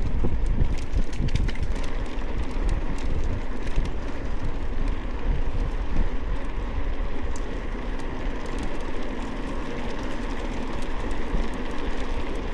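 Steady wind rumble on the microphone while moving fast, with scattered clicks and rattles over it.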